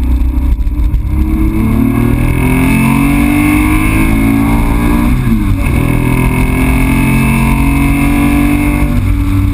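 Air-cooled flat-six of a 1966 Porsche 911 with a 2.7-litre engine on PMO carburettors, heard from inside the cabin under hard acceleration. The revs climb, drop sharply at a gear change about five seconds in, then climb again.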